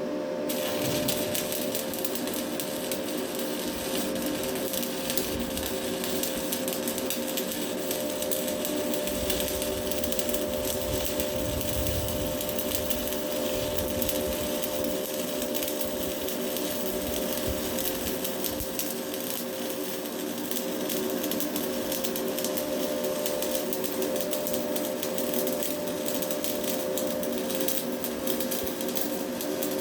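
Stick-welding arc crackling steadily as a Hilco electrode burns down a weld run. It starts about half a second in, over a steady hum.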